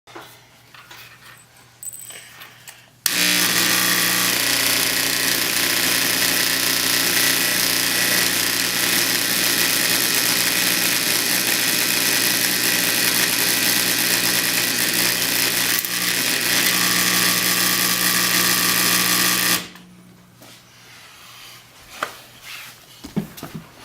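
Modified high-current microwave-oven transformer switched on under heavy load for about sixteen seconds: a loud, steady mains buzz with a strong hiss over it, starting abruptly about three seconds in and cutting off near the end. Faint handling noises come before and after it.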